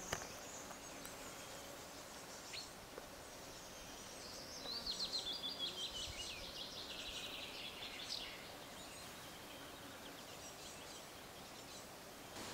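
A small songbird singing in quiet outdoor ambience: about four and a half seconds in, a run of quick notes that falls steadily in pitch over some three seconds, with a short high call near the start.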